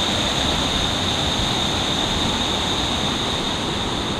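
Waterfall's rushing water, a steady, unbroken hiss of falling water.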